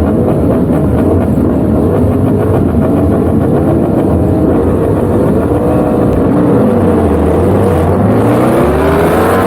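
Racing superbike engine heard on board at race pace: the revs drop and waver through a corner, then climb steadily from about eight seconds in as the bike accelerates hard.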